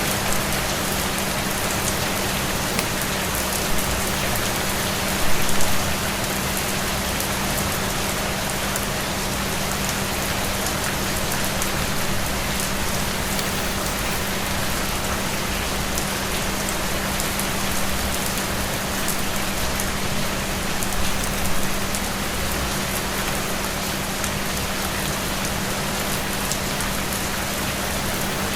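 Steady rain falling on a surface, an even hiss dotted with fine drop ticks, with a low steady hum underneath. It swells briefly louder a few times, most clearly about five seconds in and again around twenty-one seconds.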